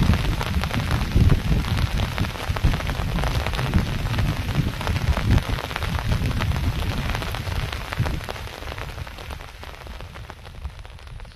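Heavy rain falling close by: a dense rush of drop hits with a low rumble underneath. It fades near the end.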